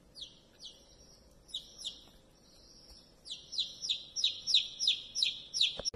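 A baby chick peeping: a few separate falling peeps, then a fast, louder run of peeps at about four a second in the second half.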